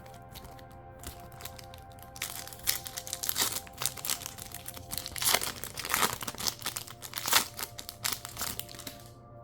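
Foil wrapper of a Pokémon Trick or Trade mini booster pack crinkling and tearing as it is opened, starting about two seconds in, after a few light ticks. Soft background music plays under it.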